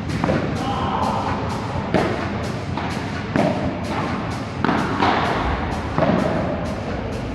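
Padel ball struck back and forth with rackets in a rally: about five sharp hits, roughly one every second and a bit. Background music with a steady, quick beat plays underneath.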